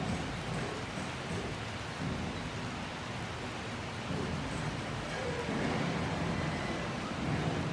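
Steady rain, with low rumbles of thunder that swell toward the end.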